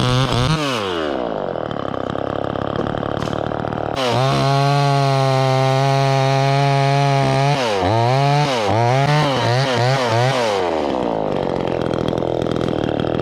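Two-stroke chainsaw at full throttle. It drops off briefly, comes back to full revs suddenly, is revved up and down several times, then falls back toward idle near the end.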